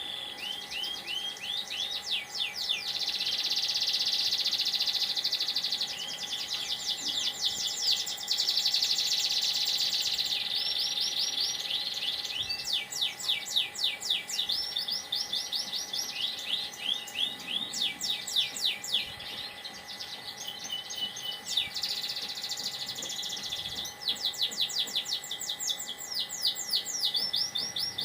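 Domestic canary singing a long, unbroken song of rapid trills, switching from one phrase type to another every few seconds, each phrase a fast run of repeated high notes.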